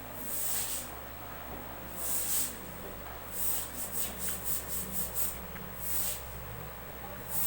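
Close-miked eating: repeated short, wet chewing and mouth sounds, with a quick run of chews in the middle, over a steady low hum.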